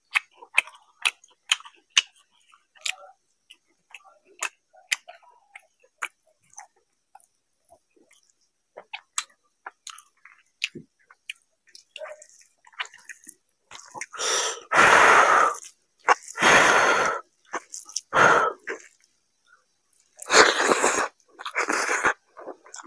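Close-miked eating by hand: wet chewing and lip-smacking clicks of rice and curry in the mouth. In the second half come several loud rushes of noise, each up to about two seconds long.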